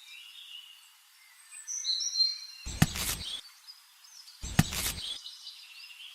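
Birds chirping in the background, broken by two sharp knocks about a second and a half apart, each followed by a brief scraping rustle.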